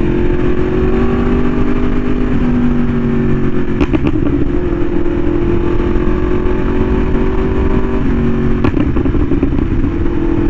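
Yamaha R1M's crossplane inline-four through an SC Project exhaust, cruising at steady, moderate revs with small shifts in engine pitch, over a heavy low rush of wind noise. Two short clicks, about four seconds in and near nine seconds.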